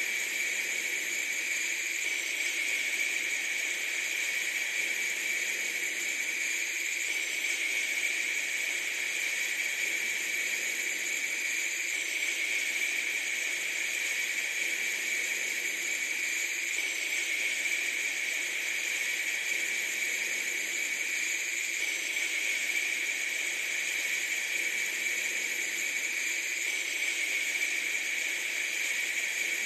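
Steady, even hiss, strongest in a high band, with a faint change that repeats about every five seconds, like a looped noise track.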